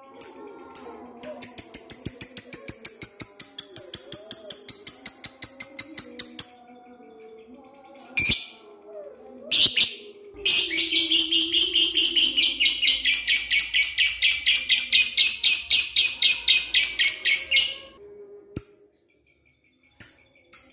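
Lovebird in full song giving its long 'ngekek' chatter: a rapid trill of high, evenly repeated notes for about five seconds, two short sharp calls, then a second, denser trill of about seven and a half seconds.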